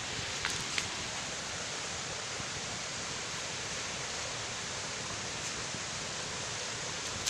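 Steady rushing hiss of water running over rocks in a hill stream, with two small clicks in the first second.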